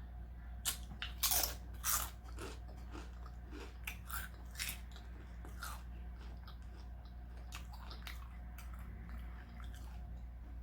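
Close-up eating sounds: a person biting and chewing a taco, with sharp crunching crackles that come thick in the first half and thin out later, over a steady low hum.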